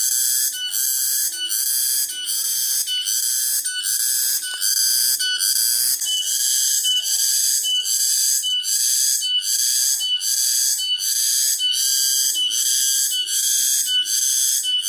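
Cicadas singing: a loud, high, shrill buzz that pulses evenly about twice a second.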